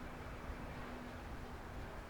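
Steady low outdoor background rumble and hiss with a faint constant hum; no distinct bird calls.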